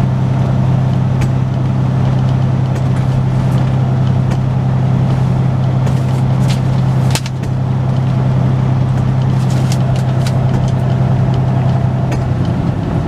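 Semi truck's diesel engine running steadily while driving, a loud low drone with road noise. It dips briefly about seven seconds in, and its pitch changes near the end.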